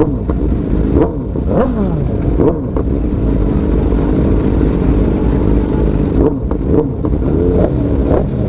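Motorcycles running on the road: a steady low rumble, with a few short rising-and-falling pitch glides in the first half.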